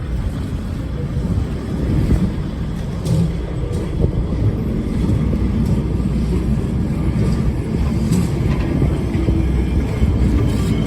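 Lisbon Tram 28 streetcar running along its rails, heard from on board: a steady low rumble with a few faint clicks and rattles.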